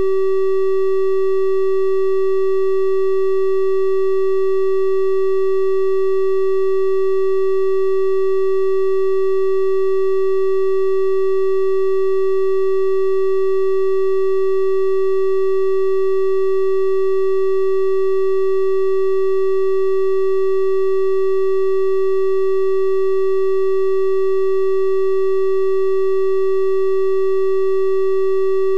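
Synthesized 384 Hz triangle-wave tone held steady without change: a plain electronic hum with faint higher overtones.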